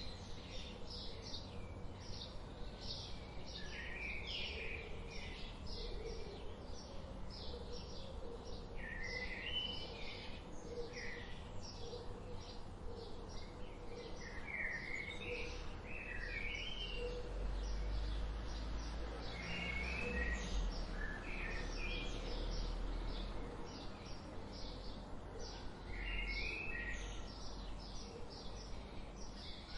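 Wild birds chirping and singing: a steady stream of short high chirps several times a second, with brief stepped song phrases from one bird every few seconds. A low rumble swells underneath for several seconds midway.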